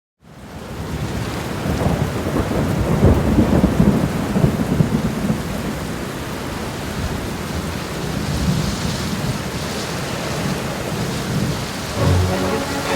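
Loud, steady rush of heavy water, with a low rumble underneath. Near the end, music comes in over it.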